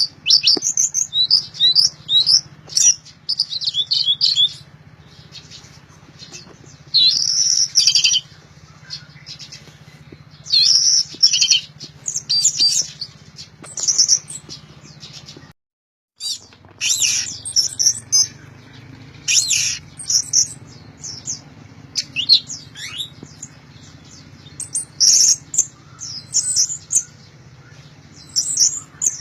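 Orange-headed thrush singing loudly in full song: quick, varied, high chirping phrases in repeated bursts. The sound drops out completely for about half a second just after the middle, and a faint steady low hum lies underneath.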